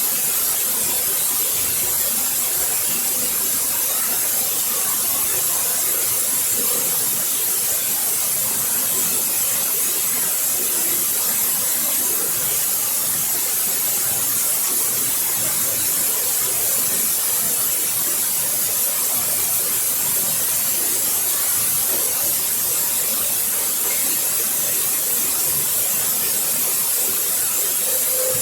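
Waterfall: water falling and splashing in a steady, unbroken hissing rush.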